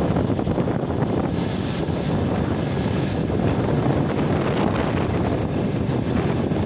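Steady rumble of an electric commuter train under way, heard from aboard: wheels running on the rails, with wind rushing over the microphone.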